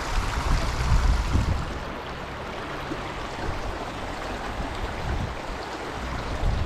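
Small stream's water running steadily, with a few low thumps in the first second and a half and again near the end.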